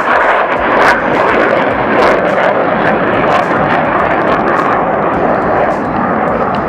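Military jet aircraft engine running loud and steady as the jet flies, with sharp crackles now and then.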